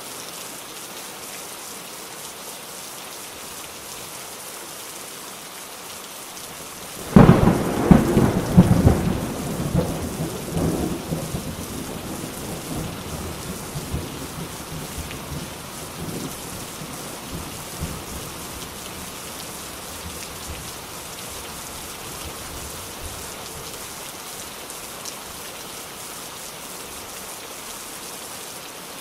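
Steady rain falling, with a loud clap of thunder about a quarter of the way in that rumbles on and fades away over the next ten seconds or so.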